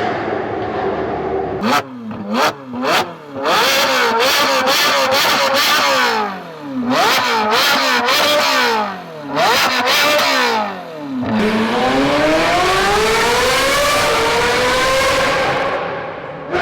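A performance car's engine and exhaust: several quick revs that cut off sharply, then hard acceleration with the pitch climbing and dropping back briefly at each gear change, ending in one long climb that fades away.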